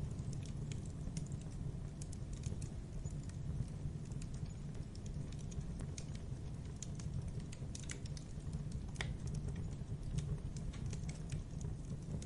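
Campfire burning: a steady low rumble of flames with irregular crackles and pops of burning wood.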